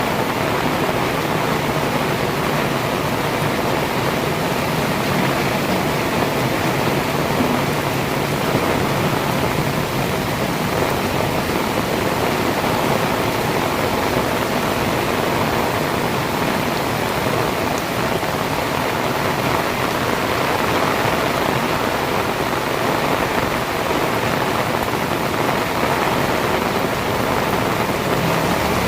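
Heavy rain pouring steadily, with a faint low hum beneath it at times.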